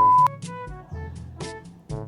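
Background music with horn-like melodic notes over a regular beat. A short, loud, pure beep, like a censor bleep, sounds right at the start and cuts off after about a third of a second.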